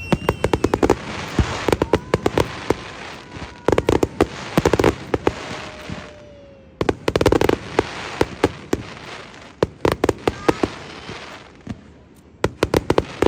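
Fireworks display: volleys of rapid sharp bangs and crackles in clusters every second or two, with a few gliding whistles between them.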